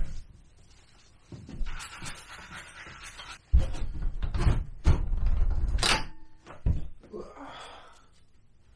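Irregular knocks, thumps and handling noises from work on a scooter engine during cleaning.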